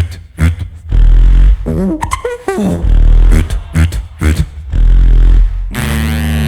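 Two beatboxers performing together through a PA. Long, heavy bass-kick sounds come about every two seconds, with short snare and click hits between them. A warbling, sliding vocal effect comes about two seconds in, and a held buzzing tone near the end.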